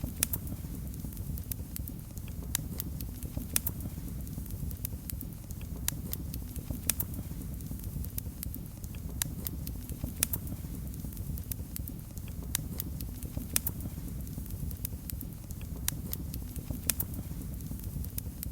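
Wood fire crackling in a fireplace: irregular sharp pops and snaps, a few a second, over a steady low rumble of the flames.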